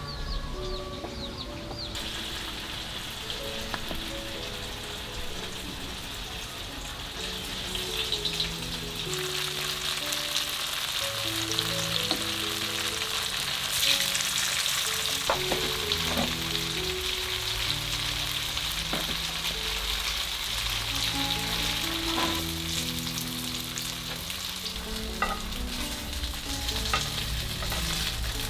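Tofu frying in hot oil, a steady sizzle that starts about two seconds in and thickens a few seconds later, with a few sharp pops. Gentle background music with a slow melody plays underneath.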